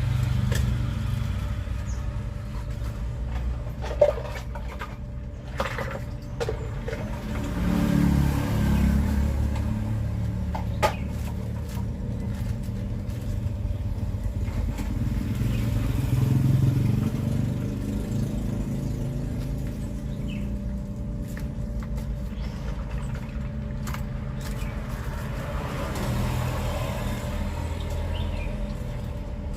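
Road traffic passing: a low engine rumble from cars and motorbikes that swells as vehicles go by, with a couple of sharp knocks.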